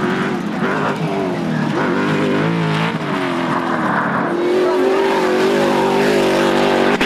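Off-road racing car engine revving hard on a dirt course. Its pitch drops and climbs several times as the throttle comes and goes, then holds higher for the last few seconds.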